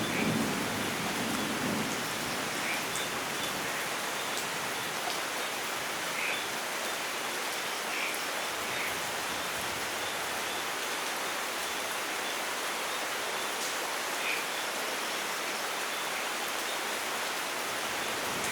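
Steady rain falling, an even hiss, with the tail of a thunder rumble dying away in the first couple of seconds.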